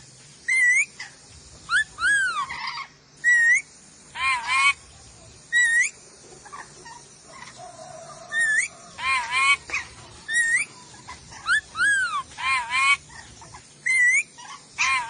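Sulawesi nuri dora parrot calling: repeated short, pitched notes, each arching up and then dropping in pitch, given singly or in quick groups of two or three, every second or so.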